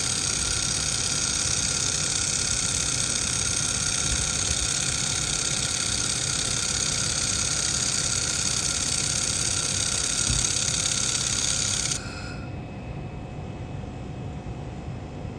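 Laser welding machine running on a flange weld: a steady hiss with a high whine over a low hum. About twelve seconds in the hiss and whine cut off suddenly as the weld stops, leaving a quieter hum.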